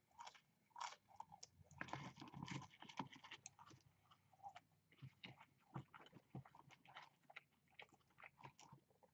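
Faint close-up chewing of French fries that are not crispy, a run of soft, irregular wet mouth clicks and small crunches.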